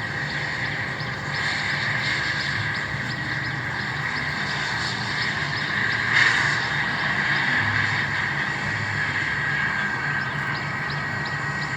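Airliner jet engines running with a steady high whine over a low rumble, swelling briefly about six seconds in.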